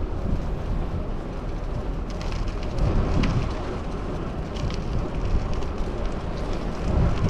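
Wind rushing and rumbling on the microphone of a bicycle riding through traffic, over road and traffic noise, with a few faint scattered clicks.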